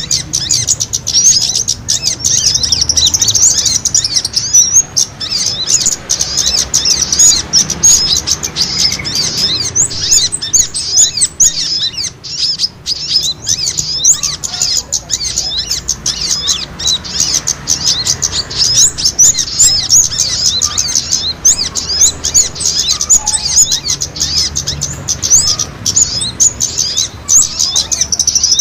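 Many small birds chirping rapidly and continuously in a dense, overlapping chatter of short high-pitched notes: agitated fighting calls of small songbirds, used as a bird-lure call.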